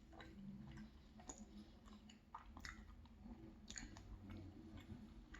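Faint chewing of a dense chocolate-chunk muffin, with scattered small wet mouth clicks.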